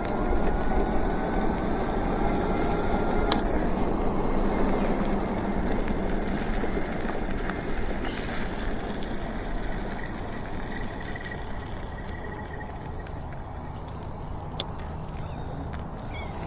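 Electric bike riding along: steady wind and road rush, with a faint whine from the electric hub motor rising slightly in pitch during the first few seconds. Two sharp clicks, about three seconds in and near the end, and the overall noise eases off gradually as the bike slows.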